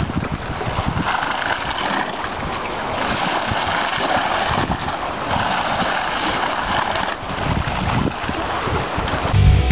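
Wind gusting and buffeting the microphone, a rough rushing noise that swells and eases every couple of seconds with low rumbling thumps.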